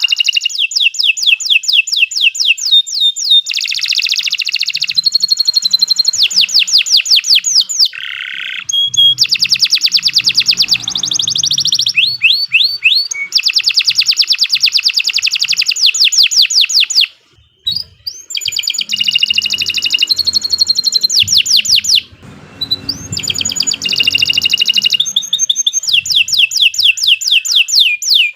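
Domestic canary singing a long, continuous song of rapid, high-pitched trills and rolls, each phrase a fast run of repeated notes. It breaks off briefly about two-thirds of the way through, then goes on.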